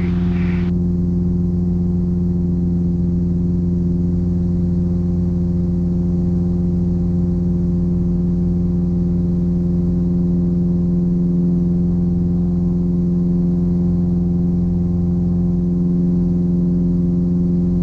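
Steady drone of a Piper Apache's engine at full power on a single engine, the other throttled back for a simulated engine failure with its propeller windmilling.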